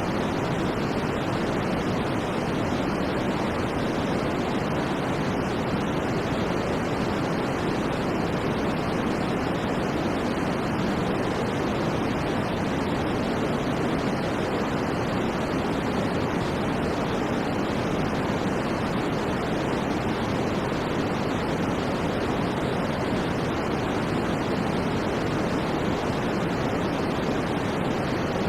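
Continuous white noise for sleep: a steady, even rushing hiss that never changes in level, weighted towards the low end.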